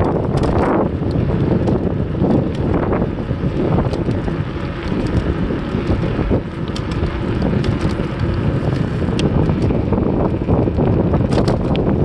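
Wind buffeting the microphone of a camera riding along on a bicycle: a loud, steady low rumble with many small clicks and rattles scattered through it.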